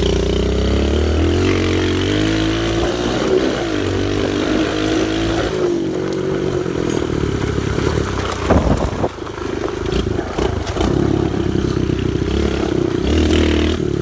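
Pit bike engine running under load on a dirt trail, its pitch rising and falling as the throttle opens and closes. There is a brief clatter with a dip in the engine about two-thirds of the way through.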